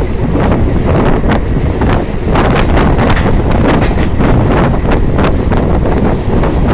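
Wind buffeting the microphone loudly over the rumble of a moving vehicle, with frequent knocks and rattles throughout.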